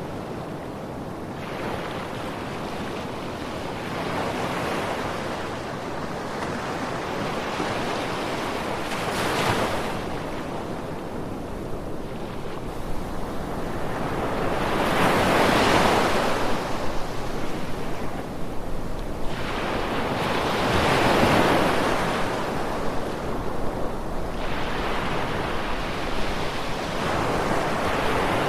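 Ocean waves breaking and washing on a beach in a continuous rush, swelling louder every few seconds as each wave comes in, with some wind.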